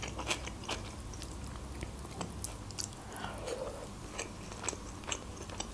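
Close-miked chewing of beshbarmak, boiled meat and wide flat noodles, heard as a string of soft, wet mouth clicks.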